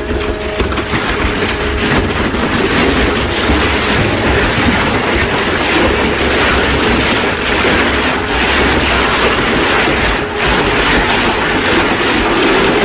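Heavy machinery running with a loud, steady rumble and rattle, dipping briefly about ten seconds in.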